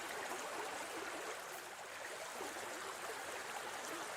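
Steady rushing of a flowing stream, played as a continuous nature-sound background.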